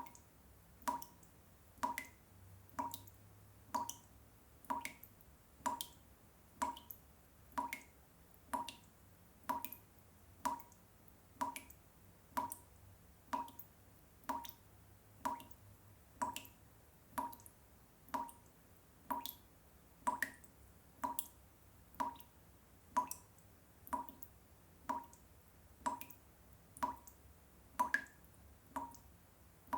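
Water drops dripping steadily at an even pace, about one short drop a second, repeated as a sleep sound for babies.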